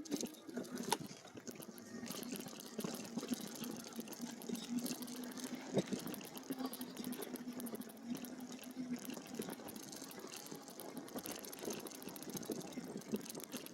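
E-bike tyres rolling over a dirt trail, a continuous crackle, with a steady low hum that stops about nine seconds in.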